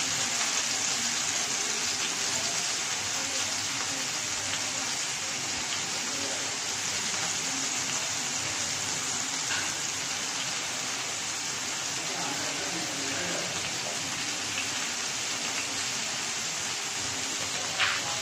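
Chopped onions sizzling in hot oil on a flat iron tawa: a steady frying hiss, with one sharp click near the end.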